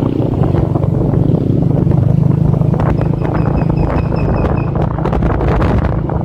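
Motorcycle engine running steadily at riding speed, with heavy wind buffeting on the microphone. A faint high pulsing beep sounds for about two seconds in the middle.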